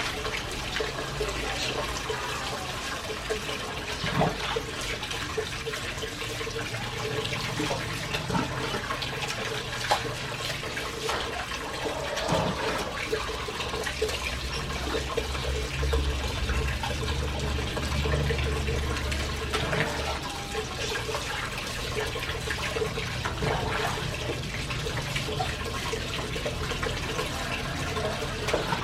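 Water running and splashing steadily, with scattered small knocks and a faint steady hum underneath.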